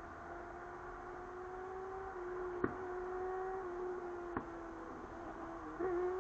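Hummingbird wings humming as the bird hovers: a steady low hum that drifts slightly in pitch. Two sharp clicks come about a third and two-thirds of the way through.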